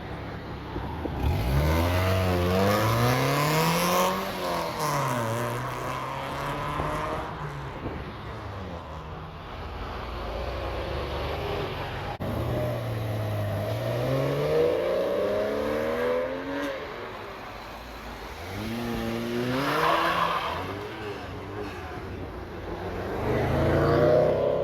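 Car engines accelerating hard as cars pull away one after another, each engine's pitch climbing and then dropping sharply at the gear changes. This happens about four times.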